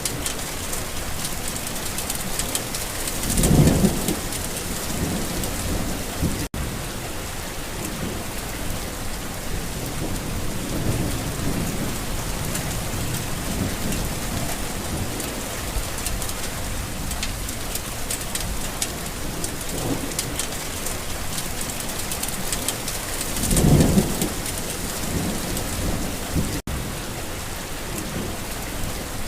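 Steady rain falling on a garden, with two rumbles of thunder, one about three seconds in and a second about twenty-four seconds in.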